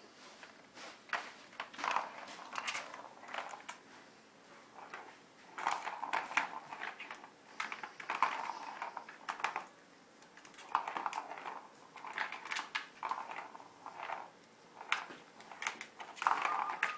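A cat's toy rattling and clattering in irregular bursts of small hard knocks and jingles as the cat plays with it, with short quiet pauses in between.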